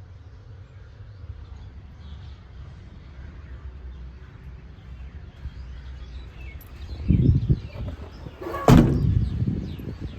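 A low steady rumble, with a dull thud about seven seconds in and a sharp, loud bang with a brief ringing tail near the end.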